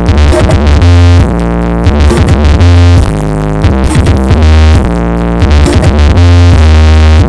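Electronic dance music with synthesizer and drum-machine beats, played very loudly through a large carnival sound system for a sound check, with long, deep bass notes recurring throughout.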